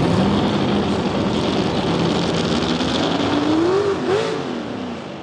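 An engine revving at the pull track: it climbs slowly, drops back about four seconds in, then revs up and falls again quickly, over a steady wash of engine and crowd noise.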